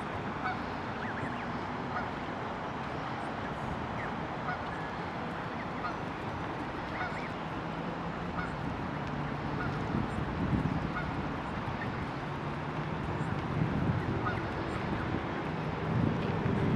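Geese calling: low honks that come more often in the second half, over a steady background hiss, with short high peeps scattered throughout.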